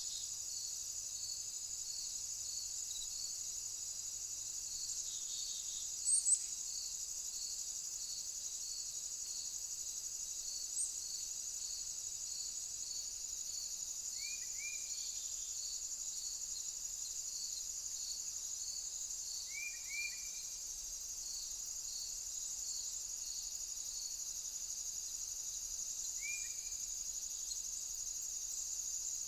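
Insects chirping steadily outdoors: a regular high chirp about one and a half times a second over a continuous high-pitched hiss. A bird gives short paired calls three times, and two brief sharp high chirps stand out about six seconds in.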